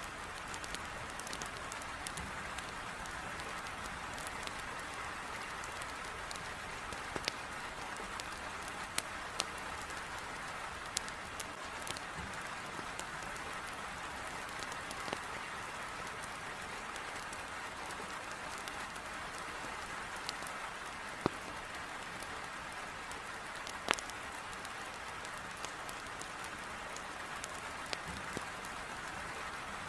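Heavy rain beating steadily against a window, mixed with a wood fire crackling in a fireplace, heard as scattered sharp pops over the steady hiss of the rain.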